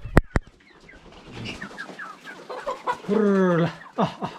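A flock of chickens clucking, with one louder drawn-out call about three seconds in. Two sharp clicks at the very start.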